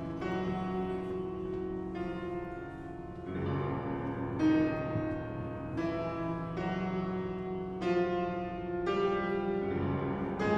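Piano accompaniment playing a slow passage of sustained chords, a new chord about every second or so.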